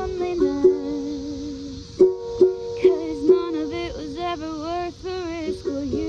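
Ukulele accompaniment with a woman singing a wavering melody over it. A run of four sharp strums falls a little after two seconds in. A steady high cicada buzz carries on underneath.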